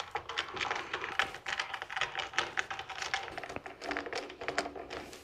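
Quick, irregular light clicks and taps of small metal parts being handled and fitted as new rails go onto a shaper fence.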